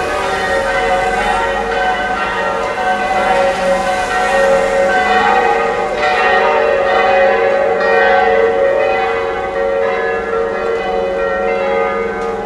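Church bells ringing the 12 o'clock peal: several bells sounding together, their tones overlapping and hanging on steadily.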